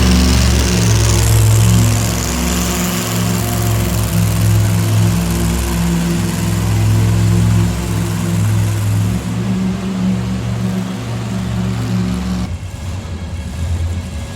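Monster truck engine running loud and steady with a deep drone, over a wide hiss that fades about nine seconds in; the sound drops off sharply near the end.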